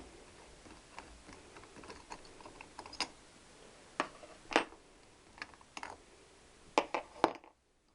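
Irregular light clicks and knocks of small engine parts and hand tools being handled while a motorcycle engine case is taken apart, with a few sharper knocks about four and a half seconds in and a quick cluster near the end before the sound drops away abruptly.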